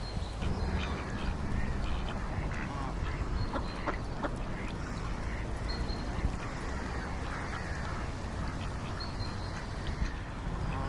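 Ducks quacking now and then, in short calls over a steady background noise.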